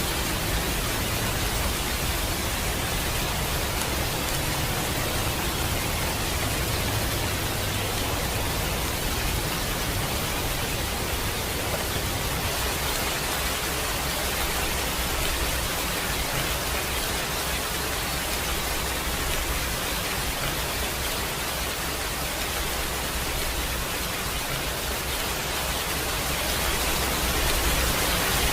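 Steady rain, heard as an even hiss with a low rumble beneath it.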